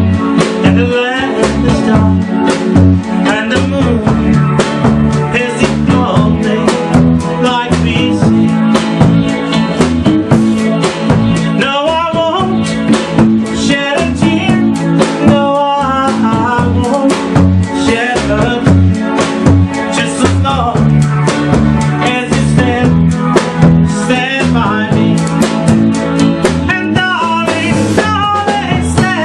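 A band playing upbeat music with a drum kit, bass and guitar, keeping a steady beat, with a melody line weaving above.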